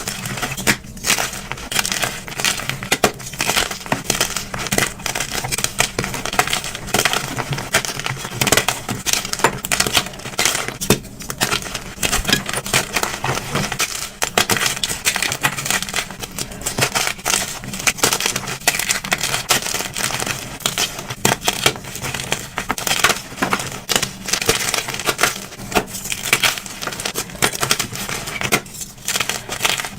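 Blocks of dyed gym chalk being crushed and crumbled, a dense run of crunches and crackles with a couple of brief pauses.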